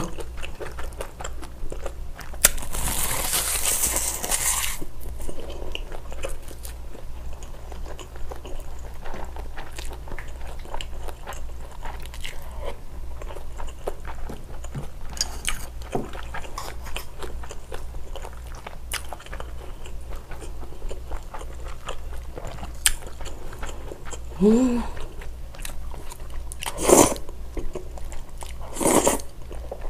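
Close-up eating sounds: a loud, crisp crunch of dried seaweed (gim) wrapped around rice a few seconds in, then steady chewing with small wet clicks. Near the end come two louder short bursts as glass noodles are slurped.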